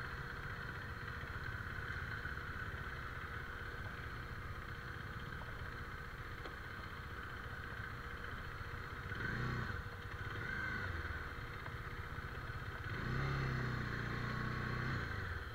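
Motorcycle engine running at low revs on a rough dirt trail, with the throttle opened a little louder twice, about halfway through and again near the end.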